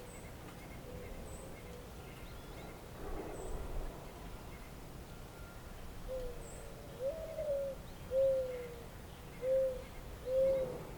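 A bird giving five low, cooing calls in the second half, each under a second long, with faint high chirps from other birds in the background.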